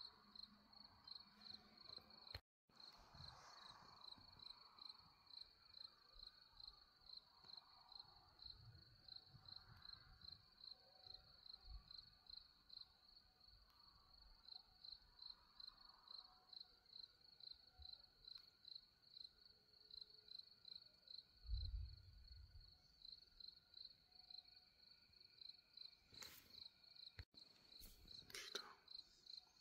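Crickets chirping faintly at night in a steady, even rhythm of a few high-pitched chirps a second. A brief low thump about two-thirds of the way through, and two short clicks near the end.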